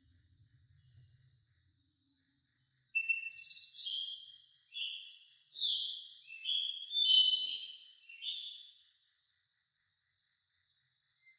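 Insects trilling steadily at a high pitch, with a bird singing a run of short whistled notes, several falling in pitch, from about three seconds in until about eight seconds in.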